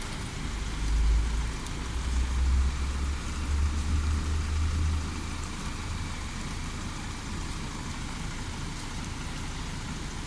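Heavy rain falling steadily, with a deep low rumble for the first five seconds or so that then fades away.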